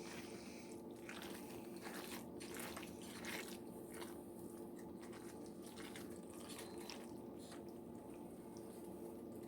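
Faint, irregular squishing and clicking of a spoon stirring cheesy macaroni with crab in a pot, over a steady low hum.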